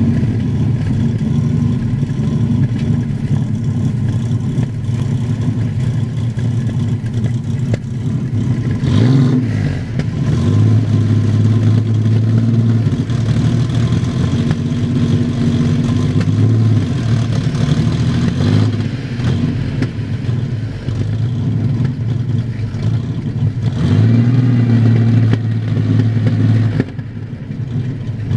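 Ford Corsair pickup's 3-litre V6 engine running, revved up several times, twice held at raised revs for a couple of seconds before dropping back to idle.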